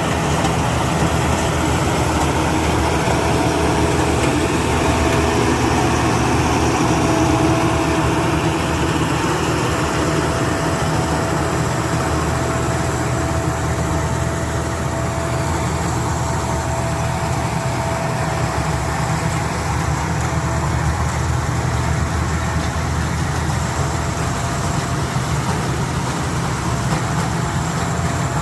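Rice combine harvester running steadily, with a steady whine over the engine's low drone.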